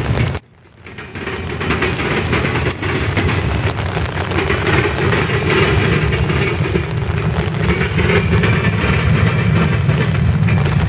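Grain train's freight cars rolling past with a steady rumble and clatter of steel wheels on the rails. The sound drops away sharply about half a second in and builds back within a second.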